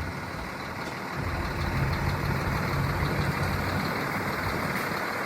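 A vehicle engine running steadily at idle, with a low rumble that gets a little louder about a second and a half in.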